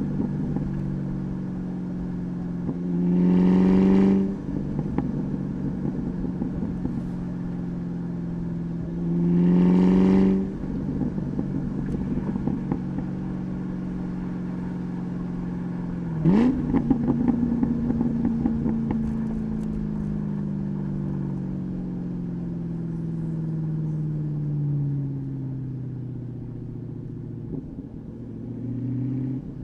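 2003 SVT Mustang Cobra's supercharged 4.6-litre V8 through a Bassani cat-back exhaust, cruising with two short bursts of throttle in the first ten seconds. About sixteen seconds in the revs jump suddenly, then a long falling drone follows as the car slows.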